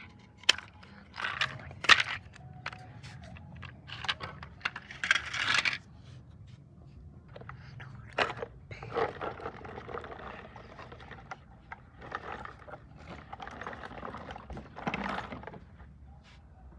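Irregular clicks, knocks and scraping, as of toy vehicles being handled and pushed about. The sharp knocks are thickest in the first few seconds, and longer rustling scrapes follow in the second half.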